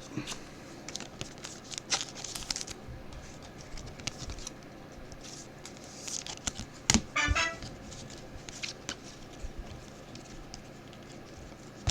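Trading cards and pack wrappers being handled: scattered light flicks, taps and crinkles as cards are slid and sorted, with one sharper tap about seven seconds in.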